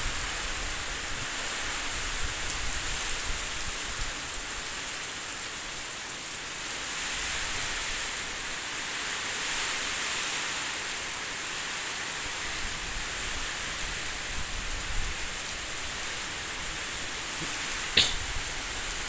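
Heavy rain pouring steadily in a strong windstorm, an even hiss throughout. A single sharp click sounds near the end.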